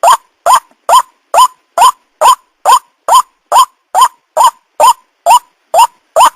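White-breasted waterhen (burung ruak) calling: a short rising note repeated evenly, a little over two a second.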